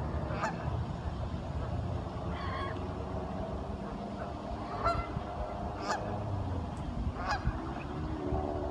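Ducks calling, with about five short, separate honk-like calls spaced a second or two apart over a steady low rumble.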